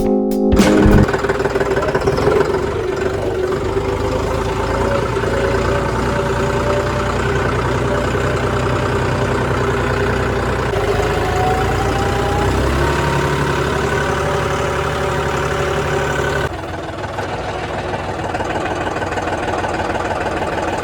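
A vehicle engine running steadily, with a slight, slow rise in pitch here and there, and an abrupt drop to a slightly quieter, different sound about three-quarters of the way through. The end of the intro music is heard at the very start.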